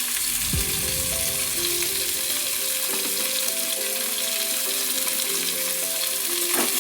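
Chopped cauliflower sizzling steadily as it fries in soybean oil in a kadai, with soft background music playing a simple melody.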